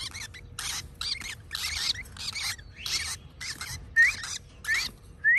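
Baby parrots giving rasping begging calls about twice a second, the hungry cries of chicks waiting to be hand-fed. Short rising chirps come in over the last couple of seconds and are the loudest calls.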